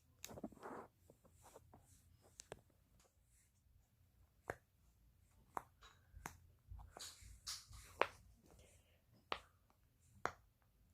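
Silicone pop-it fidget toys shaped like a keyboard and a calculator being pressed: faint, scattered pops and clicks at an irregular pace, with a short rustle near the start.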